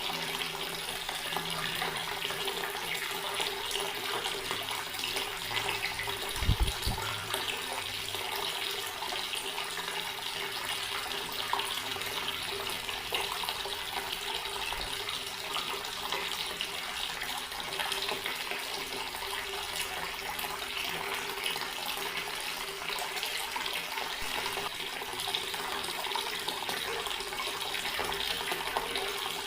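Water tap running steadily, an even rush of water into a basin, with a steady low tone under it. One brief low thump about six seconds in.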